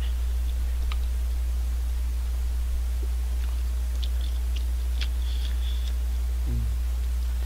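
Person chewing instant cup ramen noodles, with faint small mouth clicks, over a steady low hum that is the loudest sound throughout.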